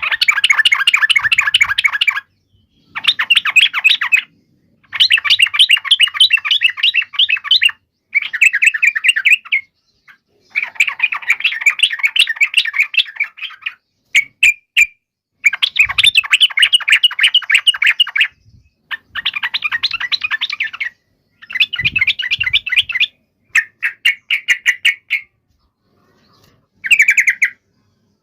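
Yellow-vented bulbul singing its fast, rolling chatter in repeated bursts, each one to three seconds long, with short pauses between. This is the bulbul's fighting call, used to provoke other bulbuls into answering.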